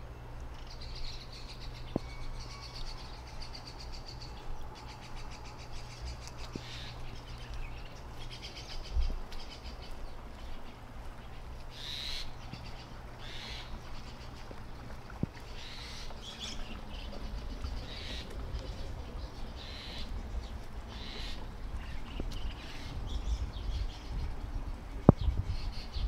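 Wild birds chirping with short repeated calls, over a steady low hum that fades out about halfway through and a low rumble.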